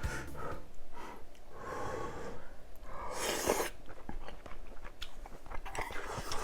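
Close-up eating sounds: a leafy vegetable wrap of beef bulgogi being bitten and chewed, wet and crisp, with one louder crunch about three seconds in.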